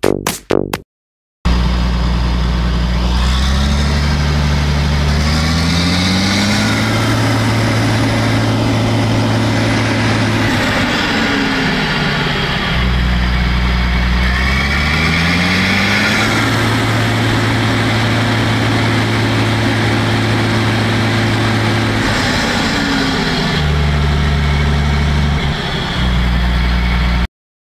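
Large diesel engine of farm machinery running, revving up over a few seconds, holding high revs and then dropping back to idle, twice; the sound cuts off suddenly near the end.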